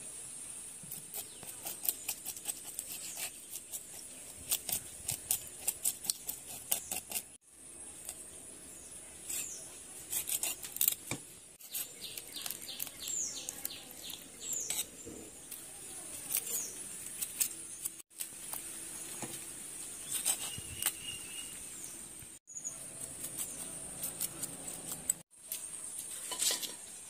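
Birds chirping in short, high, falling calls among many sharp clicks, over a steady high-pitched whine; the sound cuts out briefly several times.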